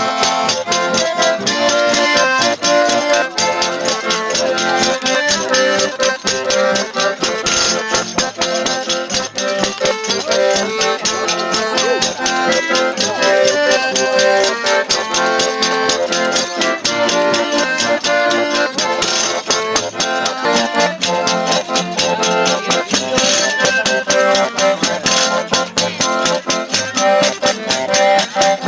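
Traditional Brazilian folk music played by a small band: a button accordion carries the melody while a pandeiro keeps a fast, steady jingling beat.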